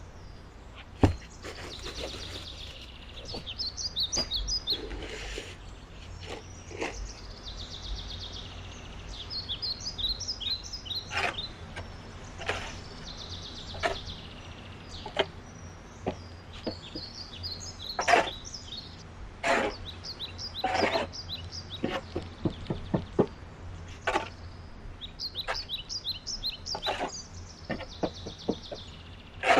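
Small birds chirping in repeated short trills, over a steady low hum. Scattered sharp knocks and clicks, the loudest sounds, come every second or two.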